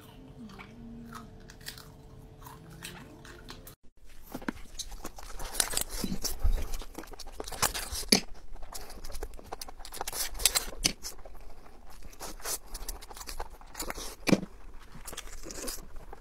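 Close-miked eating sounds: a person chewing and crunching food. The first few seconds are quieter, with small mouth clicks over a faint steady hum. After a brief dropout about four seconds in, the chewing is louder, with many sharp crunches.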